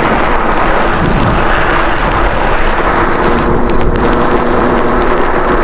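Heavy wind rush on the microphone while riding an e-bike through snow, with a steady whine from the e-bike's motor coming in about halfway through.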